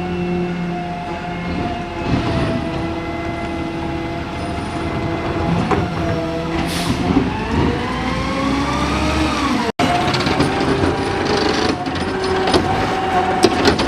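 Garbage truck running with steady whining engine and hydraulic tones, the pitch rising for about two seconds as the engine revs, then cutting off abruptly about ten seconds in before similar steady running resumes.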